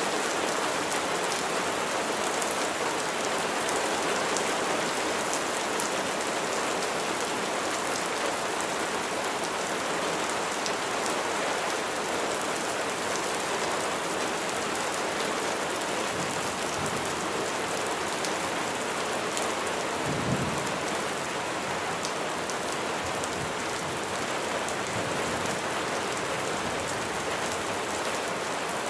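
Steady rain falling on a surface, an even hiss of many drops. About two-thirds of the way through there is one brief low thump or rumble.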